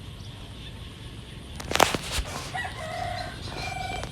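Chickens calling in the background, with two short drawn-out hen calls in the second half, and a single sharp knock a little before them.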